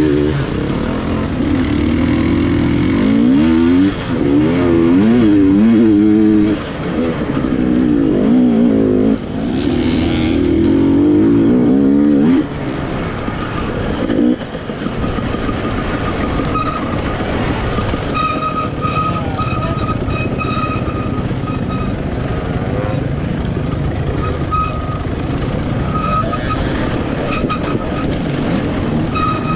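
KTM EXC 300 TPI two-stroke enduro bike heard up close from the rider, revving hard with its pitch rising and falling as the throttle opens and closes. There are brief drops in engine sound every few seconds. About twelve seconds in it settles to a quieter, steadier run at lower revs.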